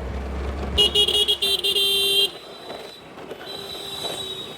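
A vehicle horn honks in city traffic. It gives a few quick toots, then holds for about a second and a half, and another fainter horn sounds near the end over low road and engine rumble.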